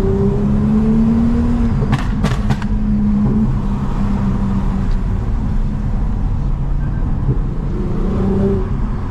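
Toyota Mark X V6 with a modified exhaust droning steadily while driving at an even pace. A few sharp clicks come about two seconds in.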